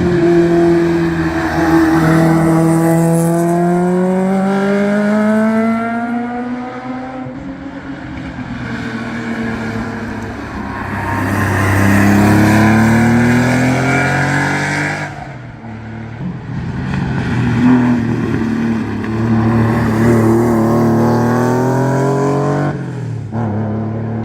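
Historic competition car engines at full throttle, pitch climbing through each gear and dropping back at the shifts. The sound swells and fades about three times as the cars go by.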